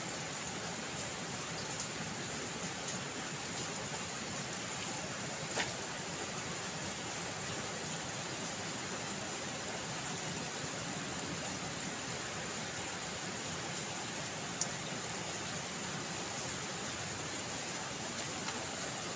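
Steady rain falling, an even hiss with a few sharper drip ticks, the clearest about six seconds in and again near the end.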